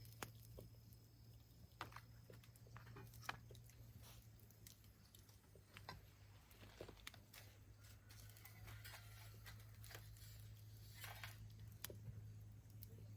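Faint, irregular crackles and pops of a small wood fire in a fire pit, over a low steady hum.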